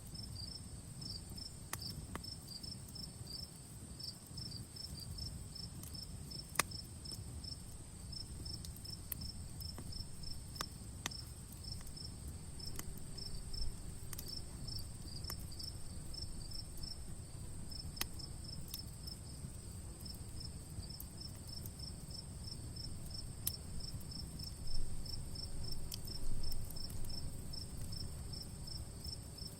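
Crickets chirping in a rapid, even rhythm over a steady high insect trill, while a campfire crackles with scattered sharp pops over a low rumble. A couple of louder flare-ups come near the end.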